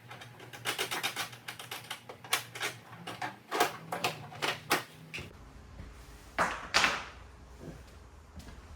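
Rapid clicks and knocks of hard equipment being handled and moved about, with two louder knocks about six and a half seconds in. A low hum comes in about five seconds in.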